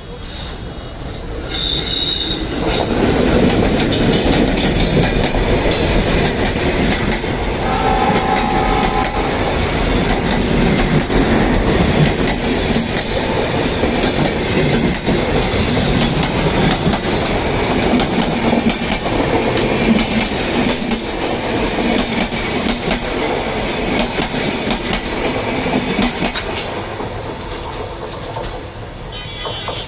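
A train passing close by, its wheels clattering and squealing on the rails. It builds over the first few seconds, runs loud for most of the stretch and fades near the end, with a few brief high squeals along the way.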